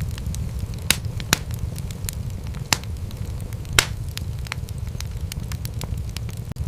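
Wood fire crackling in a fireplace: a steady low rumble of burning, with scattered sharp crackles and a few louder pops in the first four seconds.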